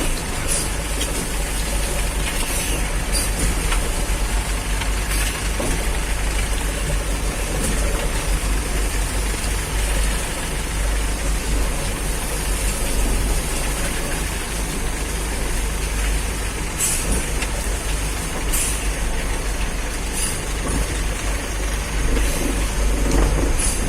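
A heavy vehicle engine runs steadily with a deep rumble, with a few scattered knocks and clanks.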